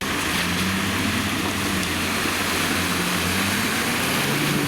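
Vehicle engine running hard, a steady low drone that wavers slightly in pitch under a loud rushing noise, cutting in suddenly at the start.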